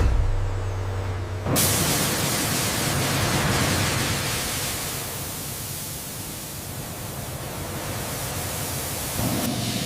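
A loud, steady rushing hiss, like machine noise, cuts in suddenly about one and a half seconds in and eases off near the end, over a low hum.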